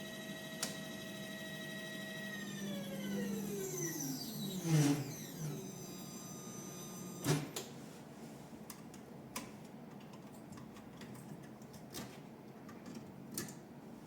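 Stepper motor driven by a Berger BLS2020 D902 stepper drive, whining at a steady pitch, then slowing down with a falling whine and stopping about five seconds in. A sharp click follows, then a few faint clicks.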